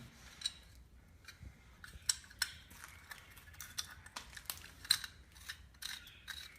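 Scattered light metallic clicks and clinks, a few a second: small metal pieces and a screw being handled and fitted together by hand.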